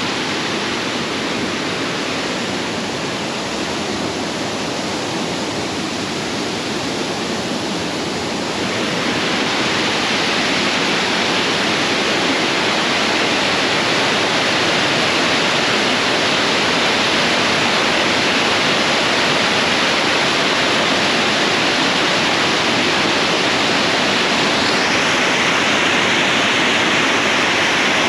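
Cam Ly Waterfall's falling water, a steady dense rush. It grows louder about nine seconds in and turns brighter near the end.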